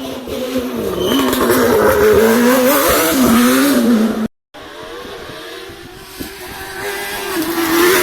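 Rally car engine at speed, its pitch rising and falling as it revs through the gears. A bit over four seconds in, a sudden cut leads to a second car, quieter at first, whose engine note holds steady and then climbs.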